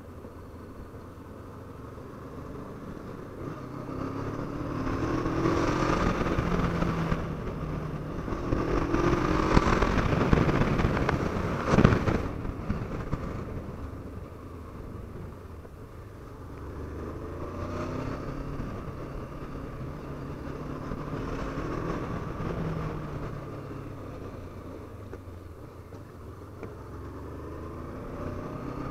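Honda CB 500F's parallel-twin engine under way, the revs climbing and falling back in several pulls through the gears, loudest around ten seconds in. A single sharp crack about twelve seconds in.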